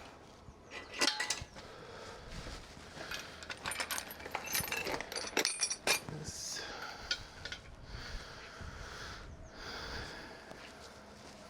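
Metal parts and tools clinking and clattering as they are handled, with a run of sharp clinks in the first half, then softer scraping and rustling.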